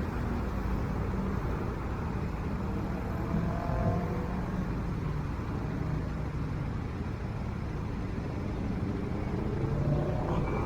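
Steady motor vehicle noise: an engine running with continuous road rumble.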